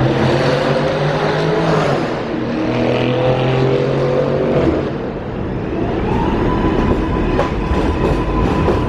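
New York City subway train's electric traction motors whining in several pitched tones that shift and rise as the train gets moving. From about six seconds a steady high tone and clicks of the wheels over rail joints take over.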